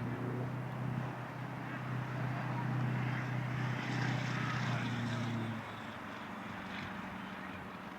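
A steady engine drone with some hiss, swelling in the middle, then cutting off abruptly about five and a half seconds in.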